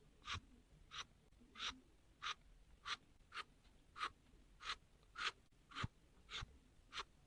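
Faint, short scratchy strokes of paper being rubbed by hand, evenly repeated a little under twice a second, as when creasing a paper fold.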